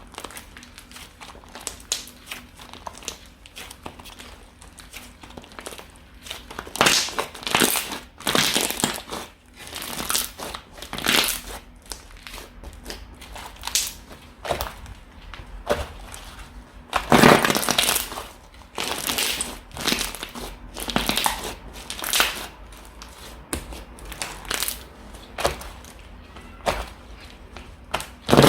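Slime being squished and pressed by hand, giving irregular crackling, crunching squishes, some much louder than others, the loudest about seventeen seconds in.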